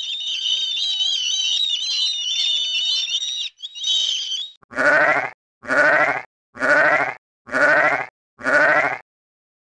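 Gulls giving high, wavering squealing calls for about three and a half seconds, then a sheep bleating five times in an even series about a second apart, each bleat with a quaver.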